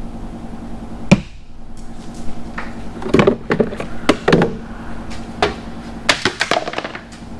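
Knocks and clatters of hand work on a car in a workshop: one sharp knock about a second in, then bursts of rattling clanks around the middle and again near the end, over a steady low hum.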